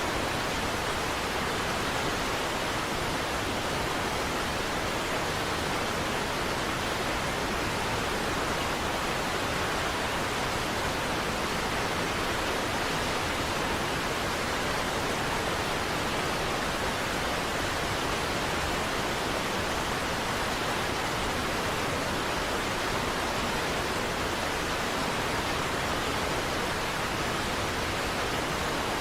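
Niagara Falls, a large waterfall, rushing steadily: an even, unbroken wash of falling water.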